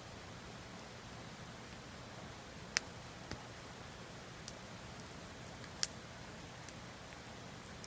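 Wood campfire crackling: a few sharp pops, the two loudest about three and six seconds in, over a steady soft hiss.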